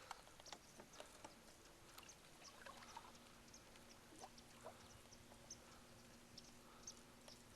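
Near silence: faint outdoor ambience with scattered soft ticks and chirps, and a faint steady hum that comes in about a second and a half in.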